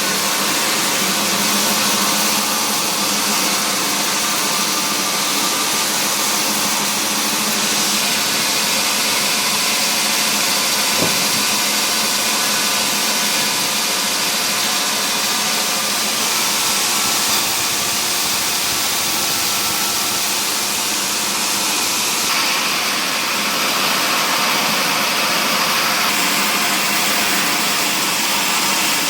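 Steady, even drone of wood-mill machinery running, with one brief click about eleven seconds in.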